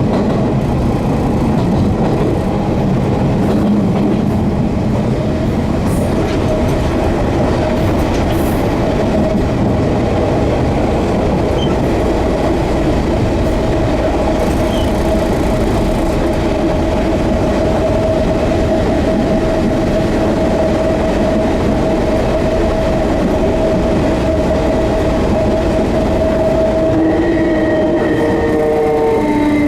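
Enshu Railway 30-series electric train running, heard from inside the car: a steady rumble of wheels on rail with a steady whine. Near the end, new whining tones come in at other pitches.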